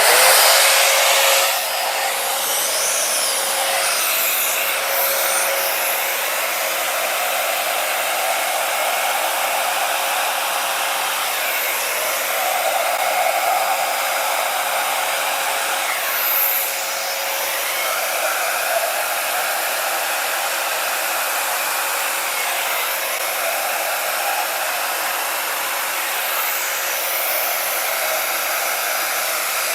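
Small handheld blow dryer running continuously, blowing a steady rush of air with a faint steady whine, used to push wet acrylic paint outward across a canvas. It is a little louder in the first second or so and dips briefly a little past halfway.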